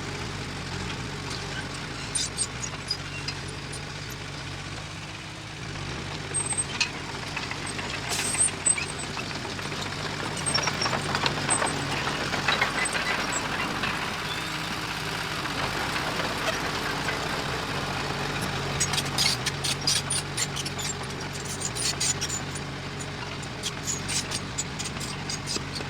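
Diesel engine of heavy earthmoving machinery running steadily. A louder rushing noise comes through around the middle, and bursts of sharp clicking and rattling follow later.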